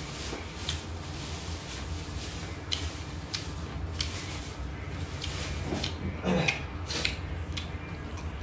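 Close-up eating sounds: scattered wet mouth clicks and smacks as a man chews chicken liver and rice, over a steady low hum. A short, louder mouth sound comes a little after six seconds in.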